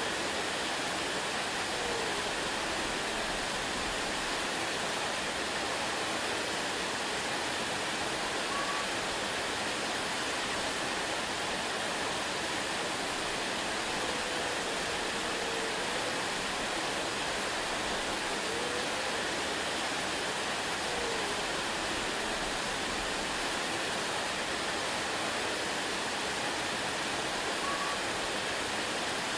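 Waterfall rushing in a steady, even roar of falling water, with a few faint, brief rising-and-falling notes heard over it now and then.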